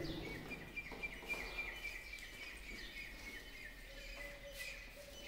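Faint bird chirping: a quick run of short, high chirps repeated several times a second, over quiet room noise, with a faint steady tone near the end.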